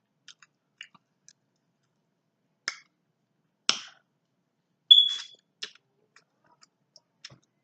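Close-miked mouth sounds of eating corn on the cob: scattered wet lip smacks and tongue clicks with pauses between, the loudest a sharp smack about five seconds in.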